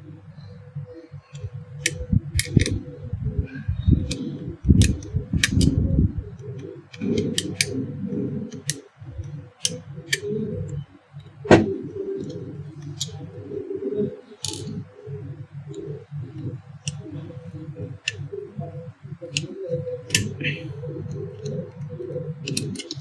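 Scattered sharp clicks and clacks of small metal parts and tools being handled as the electric iron's wiring connection is undone, over a steady low hum.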